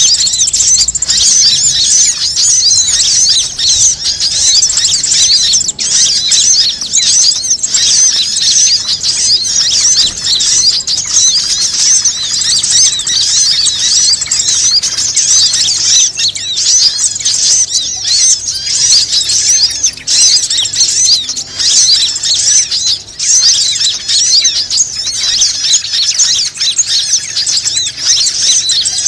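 Bird-lure (pikat) recording: a dense chorus of many birds chirping and twittering at once, high-pitched, with no let-up.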